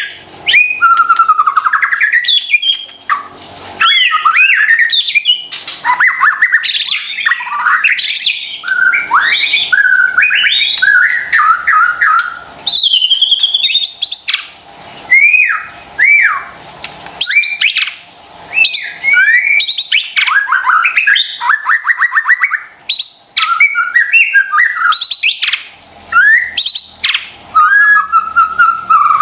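White-rumped shama (murai batu) singing a loud, varied song: clear whistles, fast rattling trills and rising and falling notes in quick phrases separated by brief pauses.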